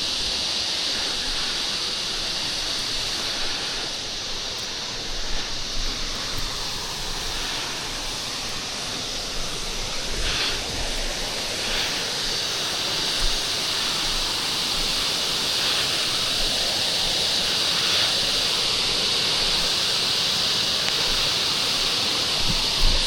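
Steady rushing of a waterfall, with a few faint knocks scattered through it.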